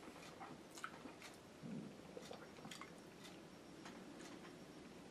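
Faint chewing of a mouthful of spaghetti and meatballs, with scattered soft clicks.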